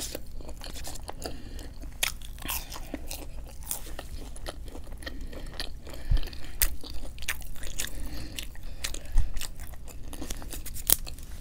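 Close-miked chewing and biting of crunchy fried fast food, with many small irregular crunches and wet mouth clicks. Two louder bites come about six and nine seconds in.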